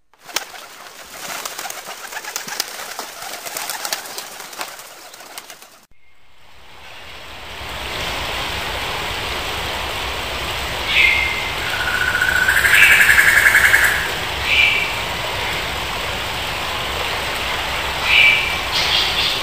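Bird wings flapping in a rapid crackle for several seconds. After an abrupt cut comes a steady rushing background with short bird chirps every few seconds and one longer call in the middle.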